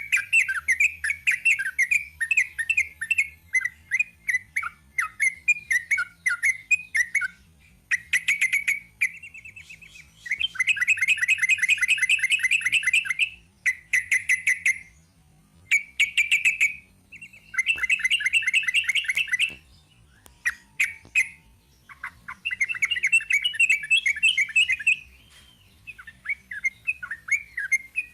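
Sooty-headed bulbul (trucuk) singing a long, rapid-fire 'ropel' song: fast runs of quick repeated chirping notes, broken into phrases by short pauses.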